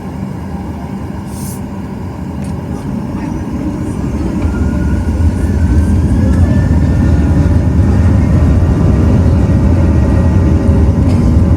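Boeing 737-800's CFM56-7B jet engines heard from the cabin, spooling up. A low rumble and a rising whine build over about four seconds, then hold loud and steady, typical of takeoff thrust being set for the takeoff roll.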